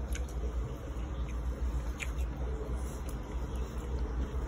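Someone chewing watermelon: a few soft scattered mouth clicks over a steady low rumble.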